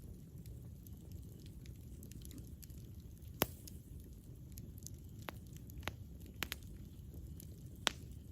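Campfire burning: a steady low rumble of the flames with light ticking and about half a dozen sharp crackling pops, the loudest a little before halfway and near the end.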